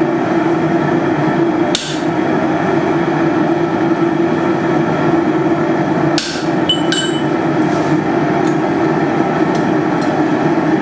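Steady loud rushing noise of the running forge, with a few sharp metallic hits from hammer and punch work on hot steel, one about two seconds in and a louder one about six seconds in that leaves a short ringing tone.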